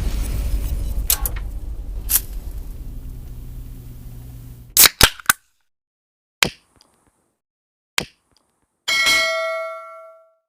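Wind-driven heavy rain, fading away over the first four seconds or so. Then a few sharp clicks and dead silence. About nine seconds in comes a single metallic ding that rings for about a second and a half.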